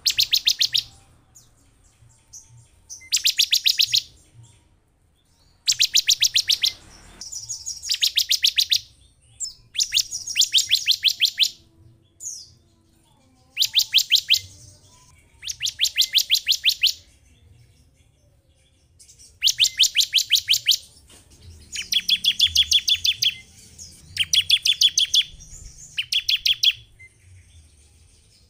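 Bar-winged prinia (ciblek) singing: about eleven loud, fast trills of sharp, high ticking notes, each lasting one to one and a half seconds, repeated roughly every two seconds with short pauses between.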